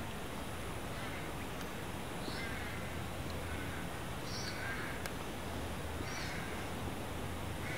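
Birds calling several times, short calls a second or two apart, over a steady outdoor background hiss.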